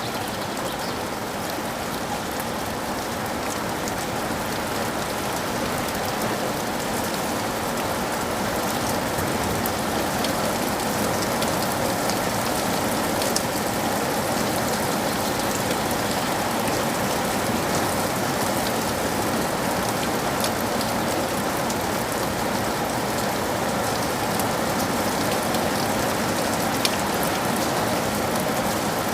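Steady rain falling, an even hiss with scattered sharp drop ticks. It grows slightly louder over the first ten seconds or so.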